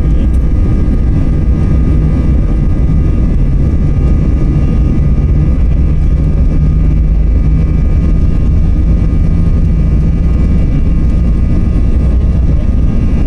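Engines of an Airbus A320-family jet airliner running at takeoff power. A loud, steady rumble with a whine of steady high fan tones over it.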